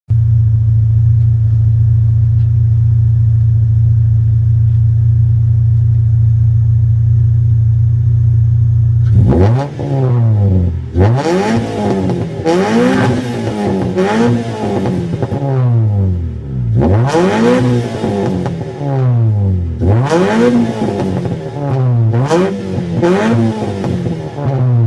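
Engine exhaust idling steadily with a low, even note, then, about nine seconds in, revved in quick throttle blips about once a second, each rising and falling in pitch.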